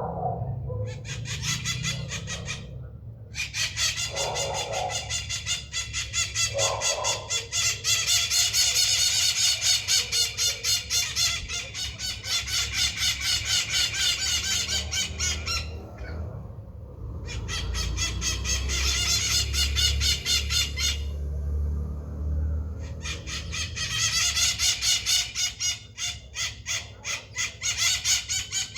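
Maritaca parrots screeching in long runs of rapid, harsh, repeated calls, with short pauses now and then.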